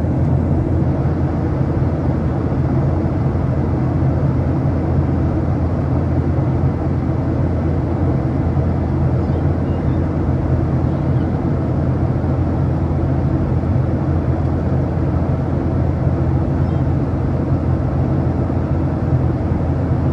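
Steady cabin noise inside a Boeing 737-800: a constant low hum from its CFM56-7B jet engines under an even rush of air.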